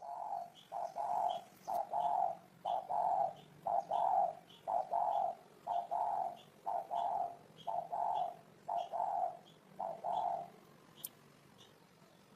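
Spotted dove cooing: a steady series of paired coos, a short note followed by a longer one, repeated about once a second, stopping about ten seconds in. Faint high chirps tick along about twice a second in the background.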